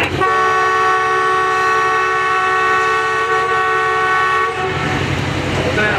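Locomotive air horn of ZCU-30 6306 sounding one long chord of several notes at once, held for about four and a half seconds and then cut off, over the rumble of the running train.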